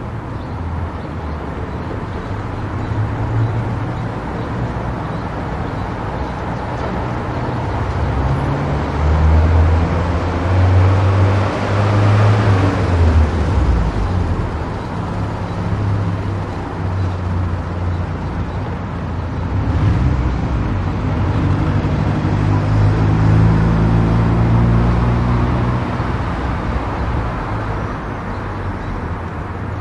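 Car driving on an expressway: steady tyre and road noise with the low drone of the engine, swelling louder for a few seconds about ten seconds in before settling back.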